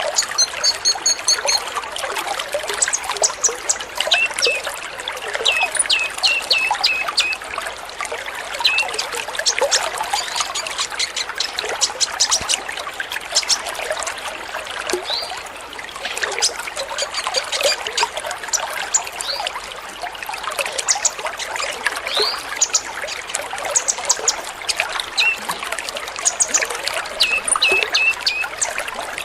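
Many sunbirds (kolibri ninja) chirping and twittering in quick, high-pitched bursts over a steady trickle of water.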